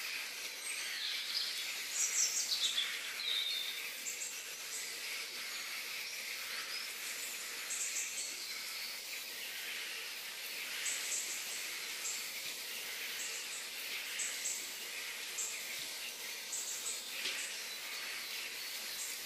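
Outdoor nature ambience: a steady high drone of insects, with short bird chirps repeating every second or two and a few falling bird calls about two seconds in.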